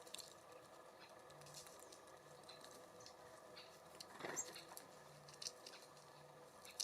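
Small birds feeding at a seed and suet feeder: faint scattered pecks, taps and scratches, with a brief louder rustle about four seconds in. A faint steady hum lies underneath.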